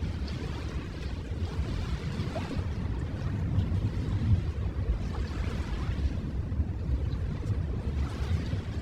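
Ocean surf: a steady low rumble of waves with a hiss that swells and fades every few seconds as they wash in.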